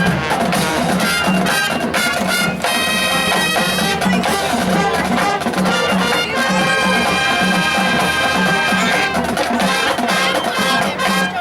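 Marching band playing: brass holding loud sustained chords over a steady drum beat.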